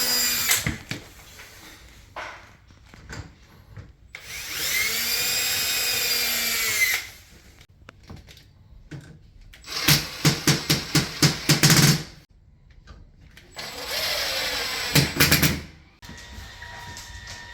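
Power drill running in short bursts, its motor pitch rising and then falling as it spins up and slows. The middle burst is a rapid series of sharp clicks.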